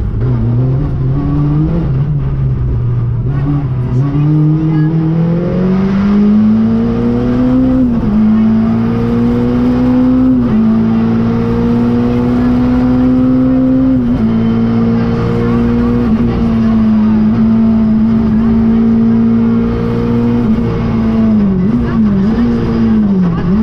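Renault Clio III RS's 2.0-litre four-cylinder engine heard from inside the cabin, driven hard on a rally stage: the revs climb through the first several seconds with brief dips a few times, hold high and fairly steady through the middle, then drop and rise quickly a few times near the end.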